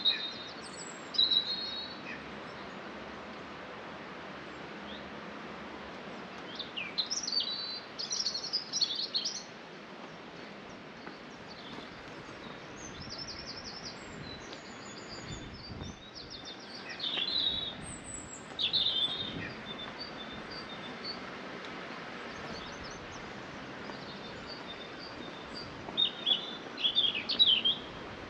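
Small birds singing and chirping in several short bursts of high trills and chirps, over a steady background noise.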